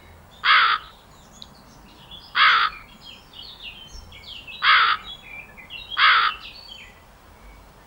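Crow cawing: four short, harsh caws at uneven intervals. Small birds chirp faintly in the background.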